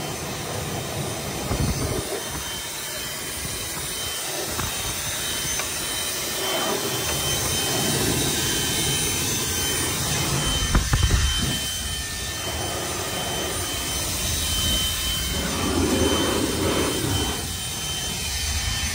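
A blower running steadily, blowing pollen off the truck, its rushing air rising and falling a little in level.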